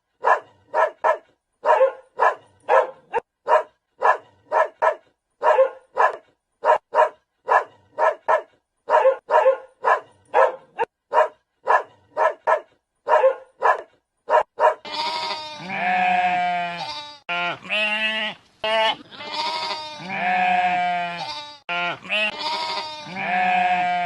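A dog barking over and over in quick short barks, often in pairs, for about the first fifteen seconds. Then a series of long, drawn-out bleats, each lasting a second or two, with short gaps between them.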